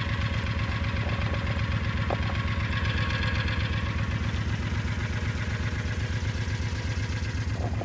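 An engine idling steadily with an even, low pulse.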